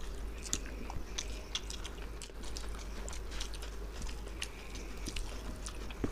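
Close-up chewing and mouth sounds of two people eating mutton biryani by hand: scattered short clicks several times a second, over a low steady hum.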